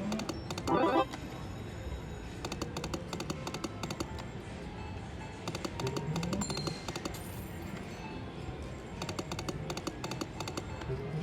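Lightning Link slot machine's electronic game sounds: runs of rapid clicking ticks as the reels spin, over the machine's music, with a short burst of chiming tones about a second in.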